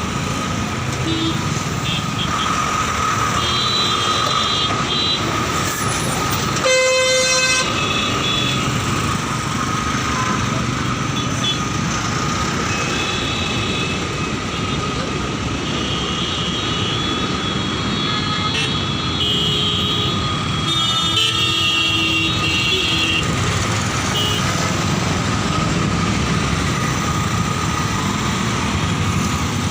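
Steady road traffic noise with vehicle horns honking. A loud horn blast lasts about a second, about seven seconds in, and shorter horn notes follow between about 13 and 23 seconds.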